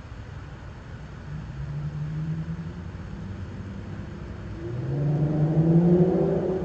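Infiniti Q50's VQ37VHR 3.7-litre V6 with a muffler delete, accelerating with its exhaust note rising in pitch. A short pull comes about a second in, then a louder one peaks near the end.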